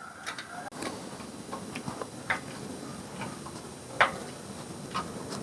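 Light, irregular metallic clicks and taps of car parts and hand tools being handled on a workbench, the sharpest about four seconds in.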